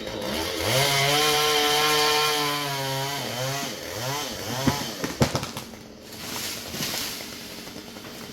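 Two-stroke chainsaw revved up to a high, steady pitch for about two and a half seconds, then let back down, blipped a couple of times, and dropping toward idle. Two sharp cracks come near the middle.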